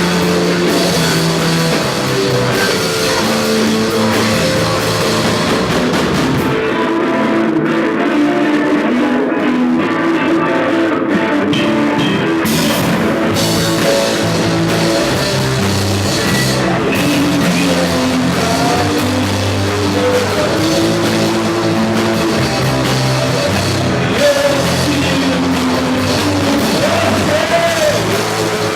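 Live rock band playing a song: electric guitar, bass and drum kit, with a voice singing over them. The high end thins out for a few seconds partway through, then comes back.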